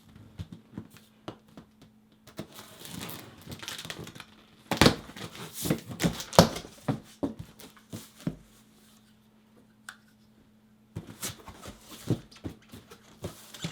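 Cardboard box and packing material handled and torn open: crinkling, tearing and knocks in two spells with a quiet pause of a couple of seconds between them.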